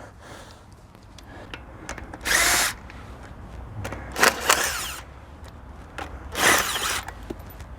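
A power tool spinning out the wheel bolts in three short bursts of about half a second each, taking the road wheel off.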